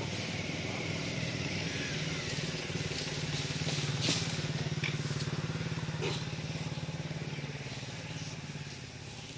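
A motor vehicle engine running steadily, growing louder through the middle and fading near the end, with a couple of short clicks.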